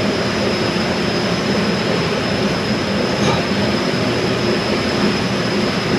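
A steady mechanical rumble with a thin high whine above it, unbroken and even in level.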